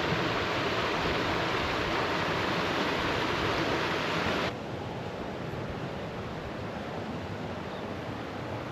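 Steady rush of creek water running over rocks. The level drops suddenly about four and a half seconds in, then the rush carries on more quietly.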